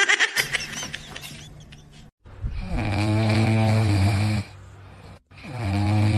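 Snoring from a sleeping pet: two long, buzzing snores about three seconds apart, the first beginning a little over two seconds in.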